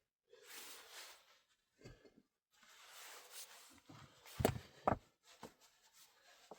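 Rustling handling noises, then two dull knocks about half a second apart.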